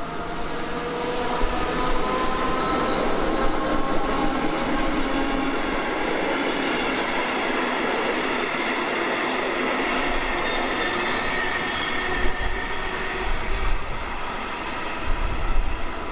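Locomotive-hauled passenger train running past on the station tracks: a steady rumble of wheels on rail with a shifting whine over it. A few low knocks of wheels over rail joints come near the end.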